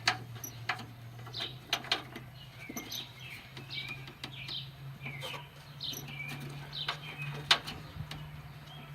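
Sharp clicks and knocks of hands and a spark plug wire being worked loose from its clip on a VW Beetle engine, the loudest near the start and about seven and a half seconds in. Birds chirp in the background over a steady low hum.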